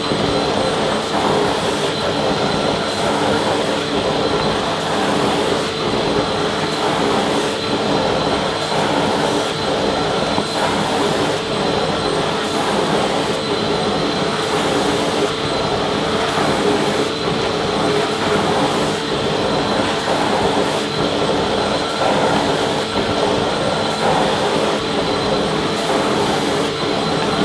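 Vacuum cleaner running steadily: a constant motor whine over an even rush of air, unchanging throughout.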